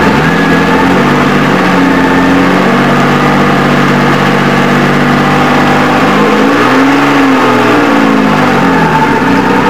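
Jaguar E-type Lightweight racer's straight-six engine running at steady revs, then revving up and back down about seven seconds in.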